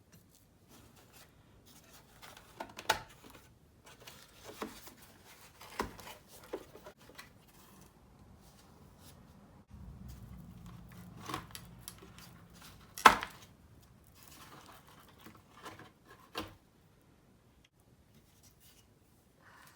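Hands working on the plastic head panel and speedometer housing of a Honda Dio scooter: scattered clicks, taps and scrapes of plastic and small tools, with the sharpest click about 13 seconds in. A low hum runs for about three seconds before that click.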